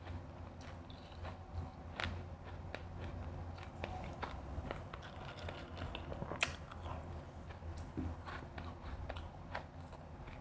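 Close-up biting and chewing of refrozen crushed ice: irregular crisp crunches, one especially sharp about six seconds in.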